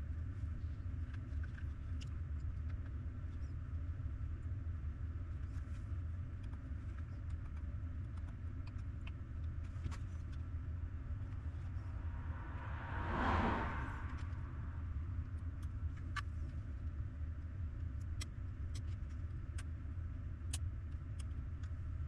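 Steady low rumble like a vehicle engine running, with scattered faint small clicks; about 13 seconds in, a vehicle passes, swelling and fading over about two seconds.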